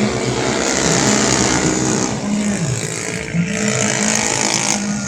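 Racing 125cc automatic scooters' engines at high revs, the engine pitch dipping and climbing back again about halfway through, over loud exhaust and intake hiss.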